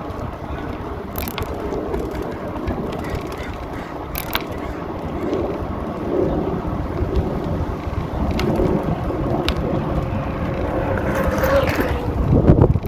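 Ride noise picked up by a phone mounted on the handlebars of a moving hybrid bicycle: a steady rush of wind on the microphone and tyre noise, with a few sharp clicks or knocks. A louder gust or bump comes near the end.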